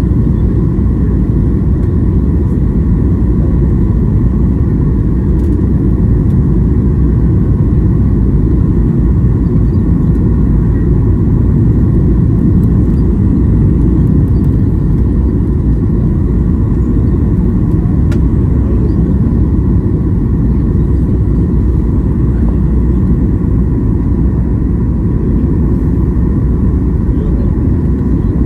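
Jet airliner cabin noise: a steady, loud low rumble of engines and airflow heard from inside the passenger cabin, with a faint steady whine over it.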